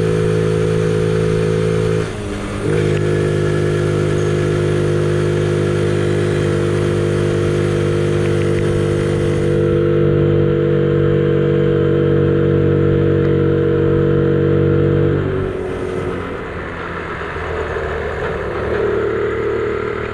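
Honda Gorilla mini-bike's small single-cylinder four-stroke engine running steadily under way, with a brief dip about two seconds in before it picks up again. About fifteen seconds in the throttle closes and the engine drops to lower, softer running.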